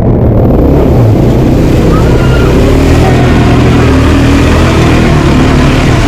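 Quad bike engine running steadily under way, loud and close, with a continuous rushing noise over it.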